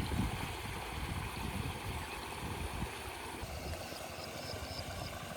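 Outdoor ambience: wind buffeting the microphone over a steady hiss, the rumble easing about three and a half seconds in, followed by a quick run of five high chirps.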